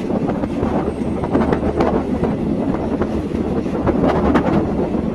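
Passenger train running on the rails, a steady rumble and rush with irregular clacking and rattling from the wheels and carriage.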